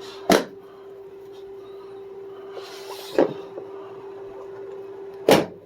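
A screwdriver set's case being opened and handled one-handed: three sharp clacks, spaced a couple of seconds apart, with a brief rustling scrape just before the middle one. A faint steady hum runs underneath.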